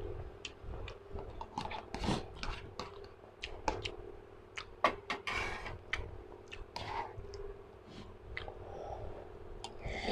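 Close-miked chewing of spicy cup noodles, with many small wet mouth clicks and a few longer breathy sounds, one about five seconds in, over a faint steady hum.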